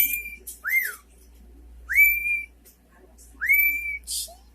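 Cockatiel whistling: a rising note that levels off and holds, repeated three times about a second and a half apart, with a short up-and-down note after the first. A brief raspy burst comes near the end.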